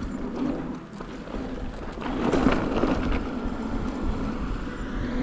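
E-mountain bike rolling along a dirt trail: tyre and frame rattle with wind noise on the helmet camera's microphone, loudest and roughest about two seconds in. A faint rising whine begins near the end.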